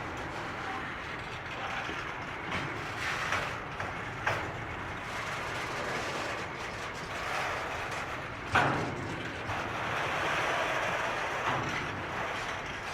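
Freight train wagons rolling past with a steady rumble of wheels on rail, broken by occasional sharp clanks, the loudest about two-thirds of the way through.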